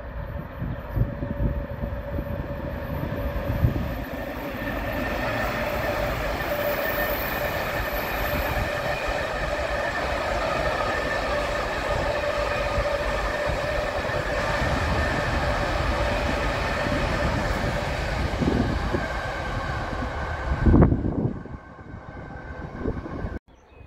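Freight train hauled by a BR 185 electric locomotive passing close by with a long string of hopper wagons. The wheels rumble and rattle steadily on the rails, with a steady ringing note above them. The noise swells briefly, then drops away near the end.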